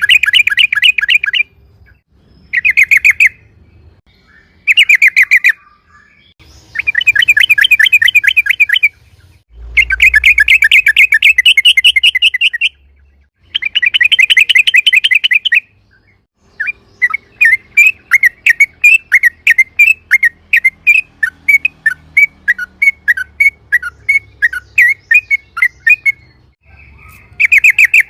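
Yellow-vented bulbul (trucukan) singing: loud bursts of rapid bubbling notes lasting one to three seconds each, with short pauses between them. From just past halfway the bursts give way to a long run of separate quick chirps, about five a second.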